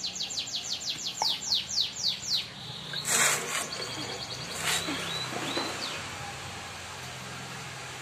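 A small songbird singing a rapid run of falling whistled notes that slows and stops about two and a half seconds in, followed by a few short chirps. A brief rustling hiss comes about three seconds in and a shorter one near five seconds.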